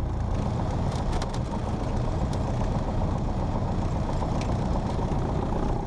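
Cessna 172P's four-cylinder Lycoming engine running at low power, a steady drone as the plane taxis.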